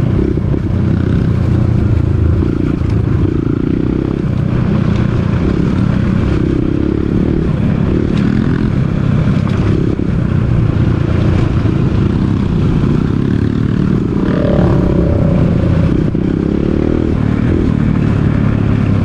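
Dirt bike engine running while riding a forest trail, its note rising and falling with the throttle.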